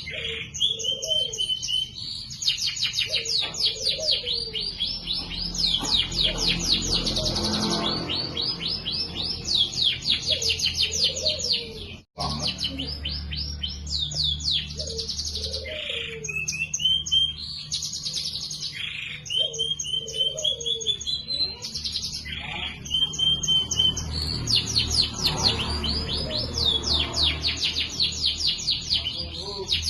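Domestic canary singing a long, continuous song of rapid trills and rolls mixed with held whistled notes, broken by a brief gap about twelve seconds in.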